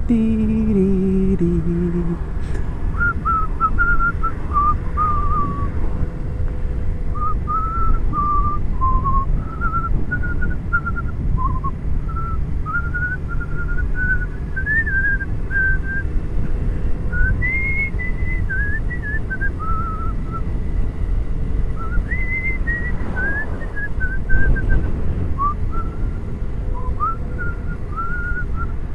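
A person whistling a tune, a single line of short, wavering notes, over a steady low rumble of wind and road noise from a moving motorcycle.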